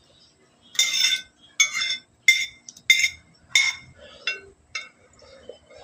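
Eating utensils clinking against a dish or bowl: seven ringing strikes about a second apart, the last three fainter.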